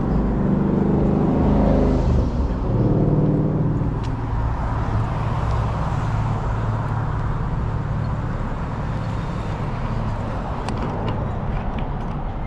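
Road traffic. A passing vehicle's engine note drops over the first few seconds, then a steady traffic rumble follows.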